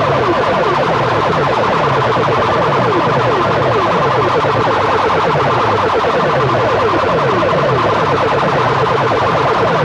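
Huge DJ sound-box system blasting a siren-like electronic competition effect at very high volume: fast, overlapping falling sweeps that repeat without a break.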